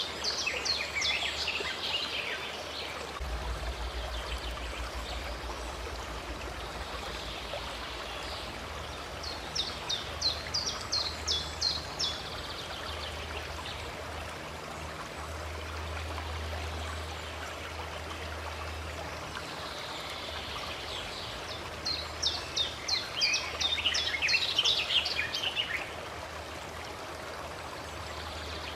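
Running stream water, a steady rushing. A songbird breaks in three times with a quick series of rapid, chattering notes: at the very start, about ten seconds in, and again around twenty-two to twenty-six seconds.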